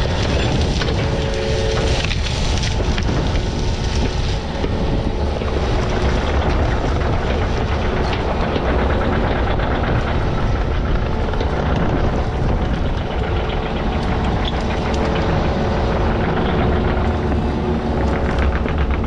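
Heavy equipment engine running steadily at a constant level, with faint clanks and rattles over it.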